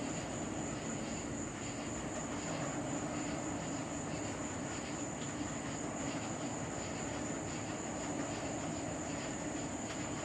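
Forge running with a steady rushing noise and low hum, with no hammer blows, as a nail heats in it.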